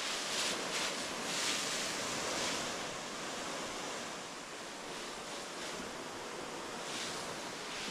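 Garden hose nozzle on its mist setting spraying water over greenhouse plants: a steady hiss that swells and fades as the spray is swept across them.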